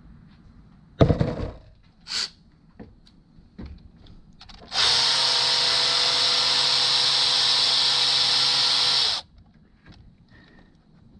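A sharp knock about a second in, then a cordless drill/driver runs steadily for about four seconds and stops abruptly, driving in a bolt on the engine's front cover.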